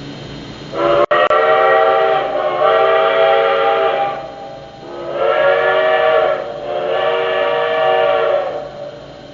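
Steam locomotive chime whistles blowing four long blasts in two pairs, each blast a chord of several steady notes, as the two engines leave the depot.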